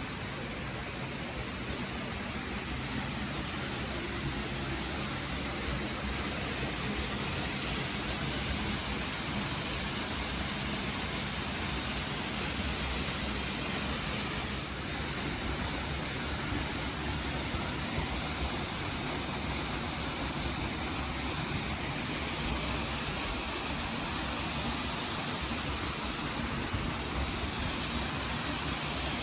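Waterfall, its water falling and rushing in a steady, even roar of noise.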